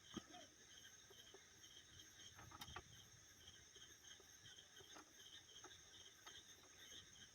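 Near silence: faint insects chirping in a steady run of quick high pulses, with a few faint brief clicks, the strongest just under three seconds in.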